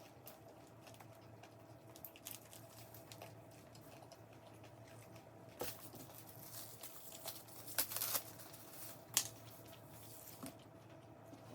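Food packaging crinkling and tearing as it is handled, with scattered small rustles and a few sharp clicks, the loudest about two-thirds of the way through.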